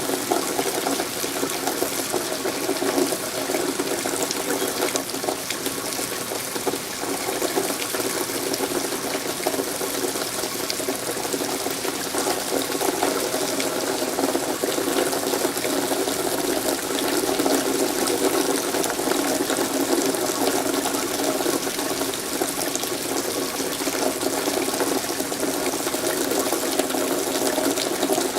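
Steady rain falling, an even, unbroken hiss with a faint steady hum running under it.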